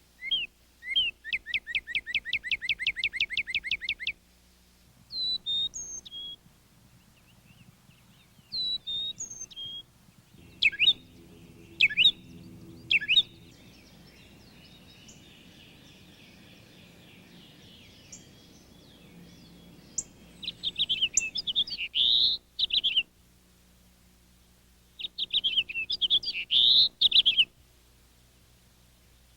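Songbirds singing. First a fast run of evenly repeated notes lasting about three seconds, then short whistled phrases, and near the end two bursts of rapid chattering notes.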